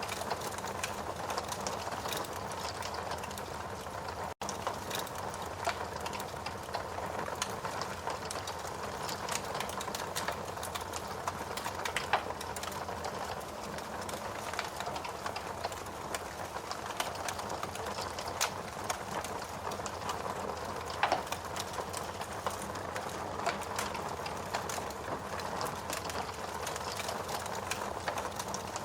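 Wood fire burning in a fireplace, crackling: a steady hiss under constant small pops and ticks, with a few louder snaps of burning wood.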